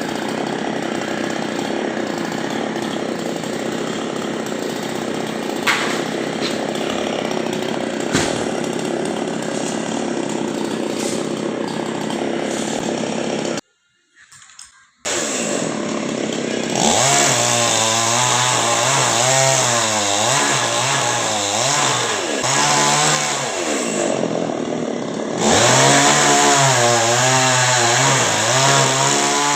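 Two-stroke chainsaw running and cutting into a coconut palm trunk, with the engine speed rising and falling as it works. It drops out completely for about a second near the middle.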